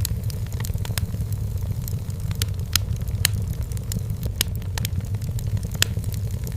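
Wood fire crackling in a fireplace: irregular sharp pops and snaps of burning firewood, several a second, over a steady low rumble.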